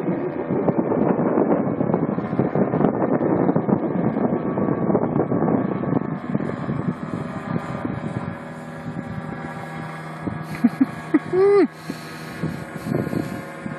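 A small paramotor engine drones steadily while wind buffets the microphone, louder in the first half and then quieter as the craft climbs away.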